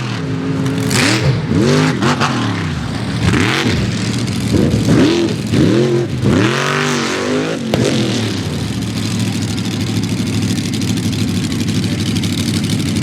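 Mega mud truck engine revving hard, its pitch climbing and dropping again and again as the throttle is worked. After about eight seconds it settles into a steadier run.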